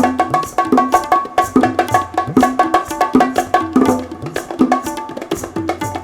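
Fast hand-drum percussion from a duet of bongos, cajon, tabla and kanjira, dense ringing strokes with low drum notes that bend in pitch.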